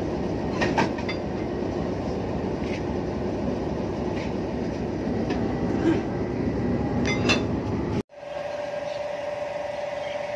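Passenger train running on the rails: a steady rumble with a few sharp clanks. About eight seconds in it cuts off abruptly to a quieter steady hum with a thin steady tone.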